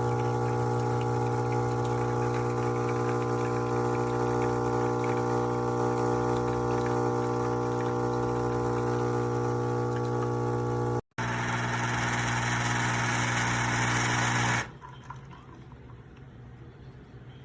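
Espresso machine's pump running with a steady buzzing hum. After a brief cut, a strong hiss joins the hum for a few seconds, then both stop suddenly, leaving low room tone.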